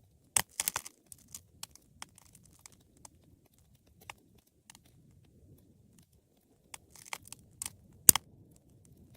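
Wood fire crackling: irregular sharp pops and snaps of burning logs, in a cluster about half a second in and another about seven seconds in, the loudest pop near the end, over a faint low rumble of the flames.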